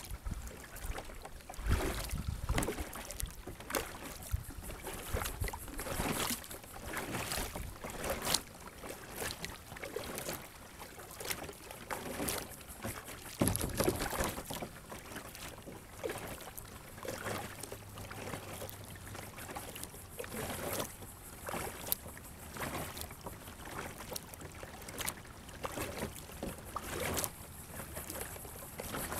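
Water splashing and lapping around a sit-on-top kayak, with irregular short splashes every second or two.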